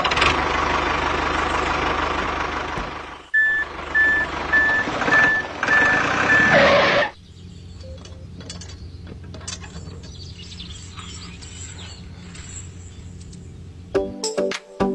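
A heavy vehicle's engine running loudly while a reversing beeper sounds about twice a second for a few seconds. The engine drops to a quieter steady hum about seven seconds in, and music starts near the end.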